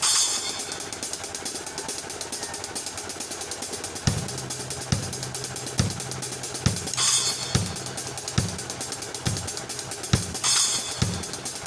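Isolated drum-kit track: a fast steady hi-hat with cymbal crashes near the start, about seven seconds in and about ten and a half seconds in. A kick drum comes in about four seconds in and beats roughly once a second.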